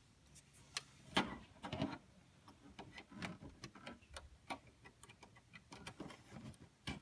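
Faint, irregular plastic clicks and taps of a USB flash drive being fumbled into a TV's USB port, with a sharper click near the end.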